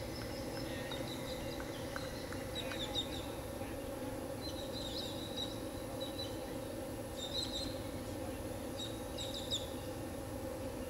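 Birds chirping in short high bursts, several times, over a steady low outdoor background hum.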